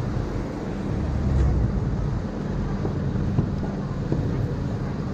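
Steady low rumble of wind buffeting the microphone and road noise, with street traffic around, heard from a moving bicycle.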